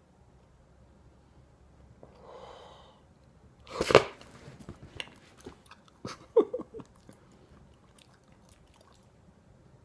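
Cockapoo puppy chewing and snuffling, with soft clicks from its mouth. A sudden loud snort comes about four seconds in and another about six seconds in.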